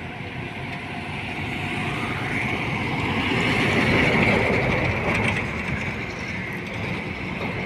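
Heavy road vehicle, a truck or bus, passing along the highway: engine and tyre noise swells to a peak about four seconds in, then fades.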